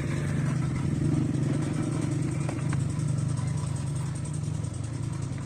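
Old 25 hp Peter diesel engine running steadily with an even firing beat.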